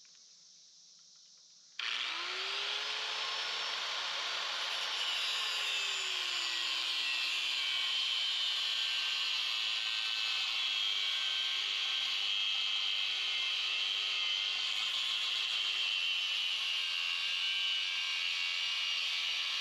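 A motor-driven machine running steadily, starting abruptly about two seconds in, its pitch rising briefly and then settling.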